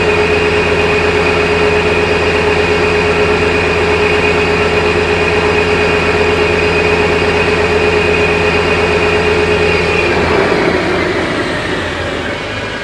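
A machine's electric motor running steadily at a constant high speed with a steady whine, then switched off about ten seconds in and winding down, its pitch falling as it slows.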